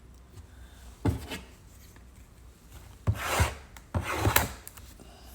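Handling of a trading-card box and its packs on a table: a few short rubbing, scraping sounds, one about a second in and a cluster around three to four and a half seconds in.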